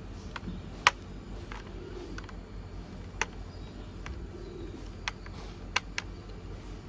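Small screws being tightened into a plastic toy car with a screwdriver: sharp, separate clicks and taps of the tool against the plastic parts, the loudest about a second in and a quick pair near the end.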